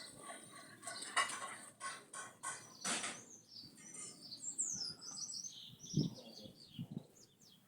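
A bird chirping: a quick run of short high notes falling in pitch about halfway through, amid rustling, clicks and flapping.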